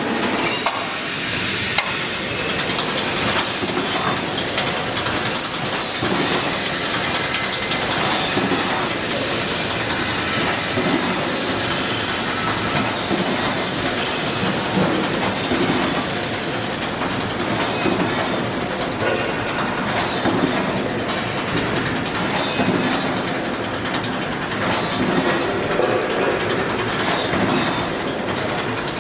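Razor wire mesh welding machine running, a continuous dense mechanical clatter full of rapid clicks.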